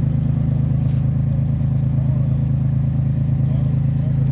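A 2002 Pontiac Firebird's 3.8-litre V6 idling steadily and smoothly, heard from behind the car at the exhaust.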